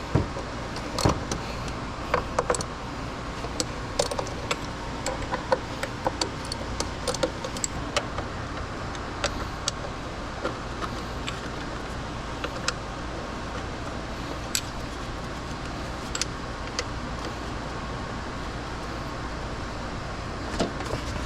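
Scattered sharp clicks and light metallic clinks of hand tools and parts being handled while working in an engine bay, over a steady low hum. The clicks come thick in the first half and thin out later.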